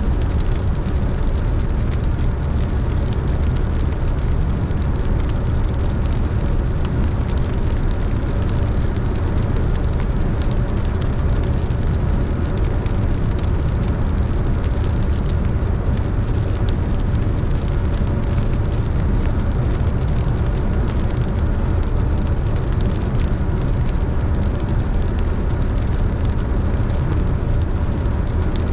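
Steady road and engine noise of a car driving on wet roads in the rain, a deep even rumble with the hiss of tyres on water. Rain hits the car as a scatter of many faint ticks.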